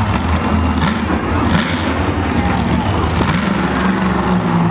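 A large vehicle engine running loudly at a steady pitch.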